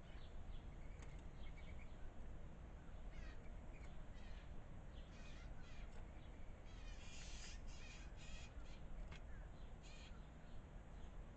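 A series of harsh, raspy bird calls at the food bowl, starting about three seconds in and coming thickest just past the middle, over a faint low background hum.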